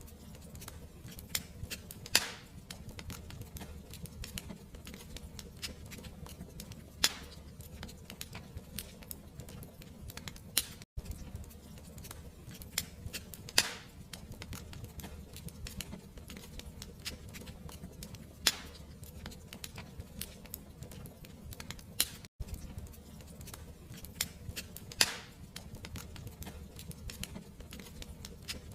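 Wood fire crackling, with a steady low rumble and many small ticks. A sharper snap comes every few seconds. The sound cuts out for an instant twice, about 11 and 22 seconds in.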